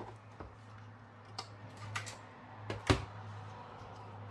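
A few light clicks and knocks as monitor parts (circuit board and metal housing) are handled during reassembly, the loudest about three seconds in, over a low steady hum.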